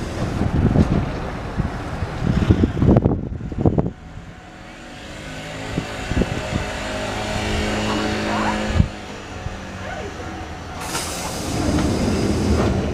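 Electric commuter trains standing at a station platform: a rough low rumble that drops off suddenly about four seconds in, leaving the steady hum of the trains' onboard equipment. A single clunk comes near nine seconds, and a broader hiss builds toward the end.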